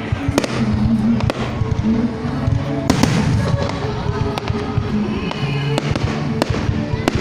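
Fireworks going off in a string of sharp bangs and crackles, the loudest bang about three seconds in, with music playing underneath.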